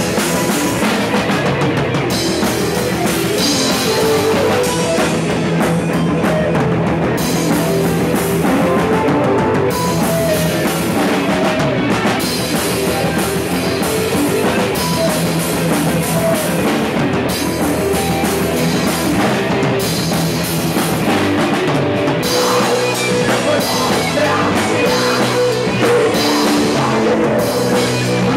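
Rock band playing an instrumental passage, with drum kit and guitars.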